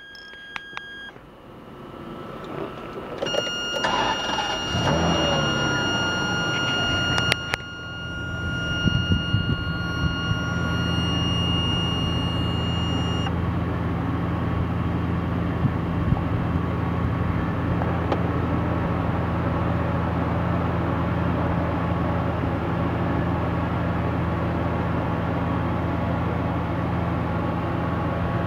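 The Ferrari Superamerica's V12 is started from cold: it cranks about four seconds in, catches with a rising rev, and then settles into a steady idle. A steady high electronic tone sounds through the start and stops about halfway.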